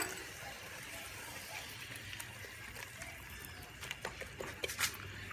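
Fresh chopped tomatoes, onions and tomato paste sizzling faintly in oil in a pot, with a few knocks and scrapes of a wooden spoon against the pot about four seconds in.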